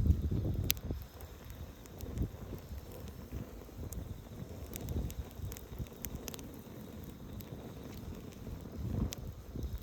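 Campfire crackling, with scattered sharp pops over a low rumbling of flame and wind on the microphone. The rumble is loudest right at the start.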